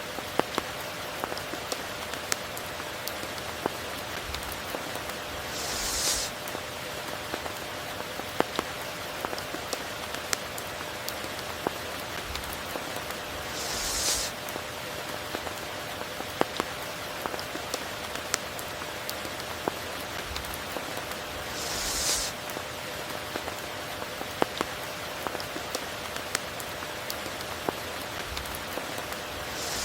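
Steady heavy tropical rain, with many sharp individual drop taps scattered through it and a brief hissing swell about every eight seconds.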